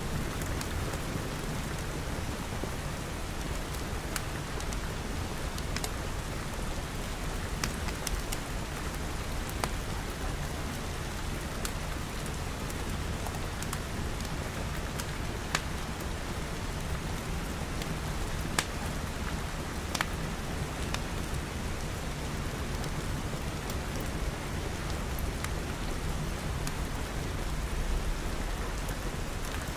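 Steady rain pattering on glass over a low rumble, with a few sharp pops scattered through it.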